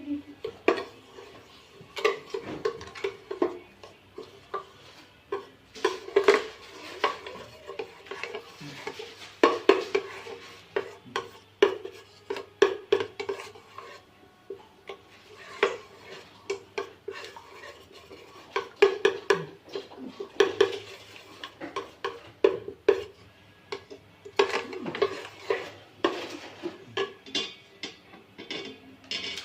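A spoon or utensil stirring and knocking against a bowl, with many irregular clinks and scrapes.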